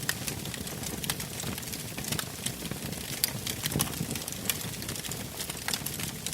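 Wood campfire burning, with frequent sharp crackles and pops over a low, steady rumble.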